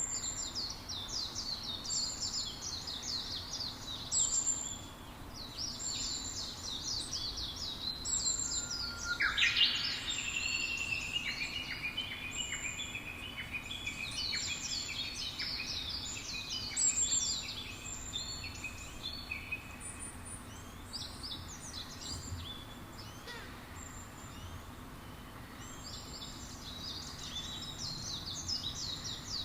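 Several songbirds singing at once: many quick, high chirps overlapping, with a lower run of notes that sweeps up just before the middle and goes on for a few seconds.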